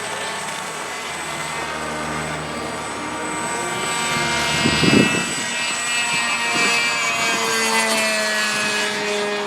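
RC seaplane's motor and propeller running at stuck high throttle in flight, a steady drone whose pitch slides down and up as it passes by.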